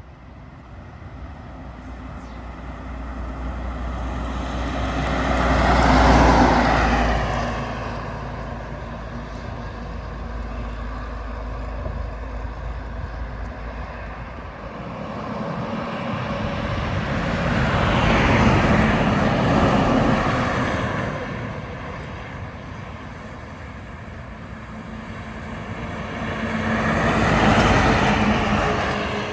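Three trucks drive past one after another on a highway, each one's engine and tyre noise building, peaking as it passes, then fading as the pitch drops: the first about six seconds in, one in the middle, and one near the end.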